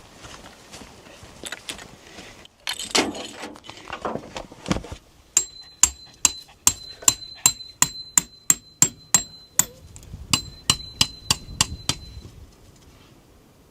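Hammer driving a metal tent peg into the ground: about twenty sharp, ringing strikes at three to four a second, with a short pause partway through, after some rustling and soft knocks.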